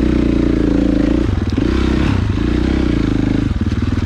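Dirt bike engine under varying throttle, its pitch rising and wavering for a few seconds, then dropping back to a steady idle near the end.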